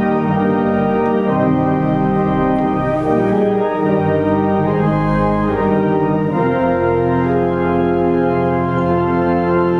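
Century-old pipe organ playing a slow run of full, sustained chords that change every second or so, with no break.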